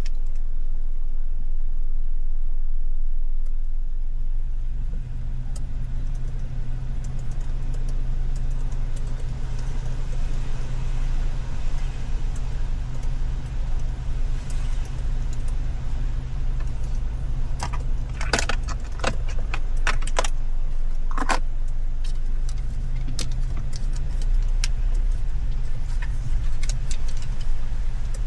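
Car engine idling with a steady low hum, with a cluster of sharp clicks and rattles about two-thirds of the way through and scattered lighter ticks after it.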